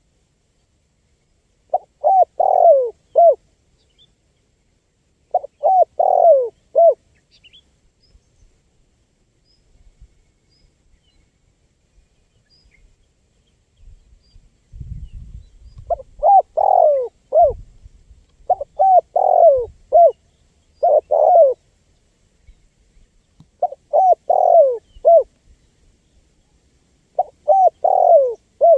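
Spotted dove (tekukur) cooing in short phrases of three or four rich, hollow notes, repeated seven times with a long pause midway. A brief low rumble comes about halfway through.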